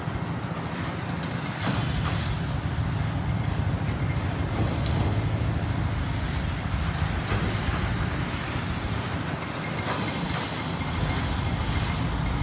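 An engine running steadily, with a rushing hiss that swells and fades every few seconds.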